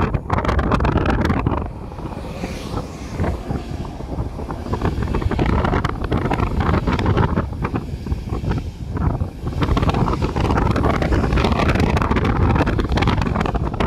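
Wind buffeting the microphone: a loud, low rumbling noise that gusts up and down, easing briefly about two seconds in and again near ten seconds.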